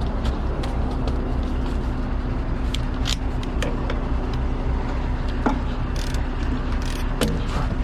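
Heavy vehicle running with a steady low rumble and hum, with frequent short clicks and rattles over it.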